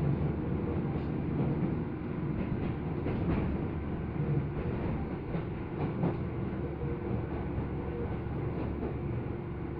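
Tobu 10030-series electric commuter train running, heard from inside the passenger car: a steady low rumble with a few light wheel clicks over rail joints.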